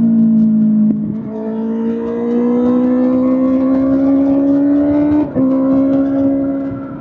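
Kawasaki ZX-6R inline-four engine through an SC-Project SC-1R exhaust, running hard with its note climbing steadily. The throttle is briefly closed at about one second and again near five seconds, with a short drop in the note each time.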